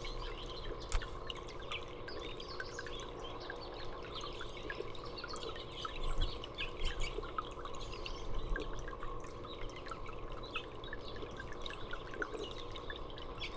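Water dripping and trickling steadily while small birds chirp with many short, rapid calls. A few soft low thumps are heard about a second in and again around six to seven seconds in.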